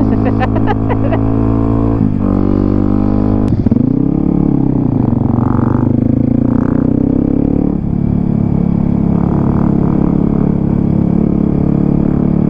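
Dirt bike engine running under way at steady revs. About three and a half seconds in there is a click and the revs swing up, then they drop back a little near eight seconds.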